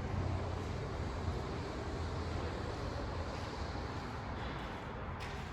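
Steady low rumble under an even rushing noise, with no clear change throughout.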